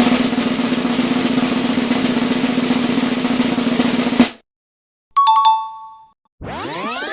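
Snare drum roll lasting about four seconds, ending on a sharp final hit. After a short gap comes a brief, fading bell-like ding. Near the end a sweeping effect of many tones starts, gliding up and then back down.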